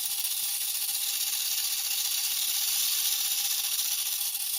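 Leaf blower running steadily: a loud, even rushing hiss with a steady hum under it.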